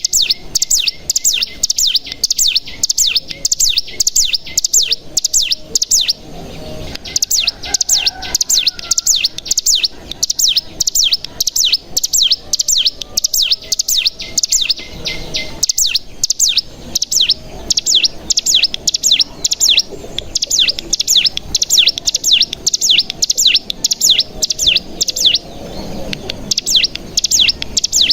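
Ciblek gunung (cigun) singing its rapid 'bren' song: a fast, near-continuous run of high, downward-sweeping chirps, several a second, breaking off briefly a few times.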